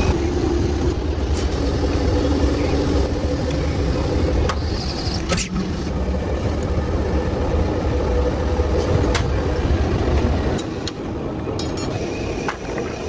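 Factory machinery running steadily with a deep hum and occasional sharp clicks and knocks; the hum cuts off about ten and a half seconds in.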